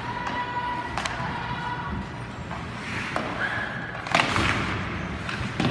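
Game noise in a large hall: a few sharp thuds and knocks, the loudest about four seconds in, with short squeaky tones over a steady background din.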